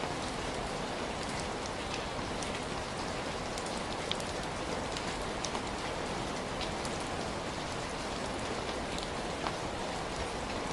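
Heavy rain falling steadily, a dense even hiss with many individual drops ticking sharply on a surface.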